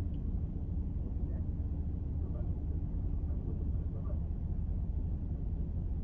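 Steady low rumble of a car driving on city roads: engine and tyre noise.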